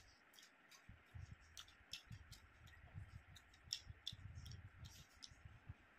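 Faint eating sounds: a man chewing chicken and rice, with irregular moist mouth clicks several times a second over soft low thumps.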